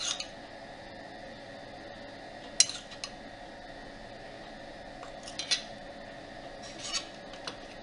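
A few light, separate clinks of cutlery against a dish, spread out over several seconds, over a faint steady hum.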